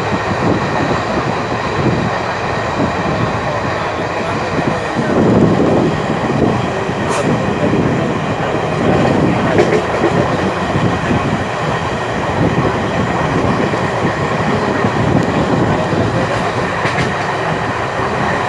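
Passenger train running along the track: steady wheel-on-rail running noise with a few sharp clicks, swelling louder about five seconds in.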